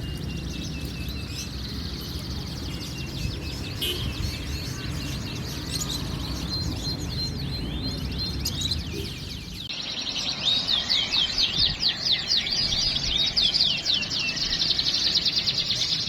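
Several caged songbirds singing at once in a dense stream of rapid chirps and trills. About ten seconds in, the sound cuts abruptly to a louder, busier burst of song.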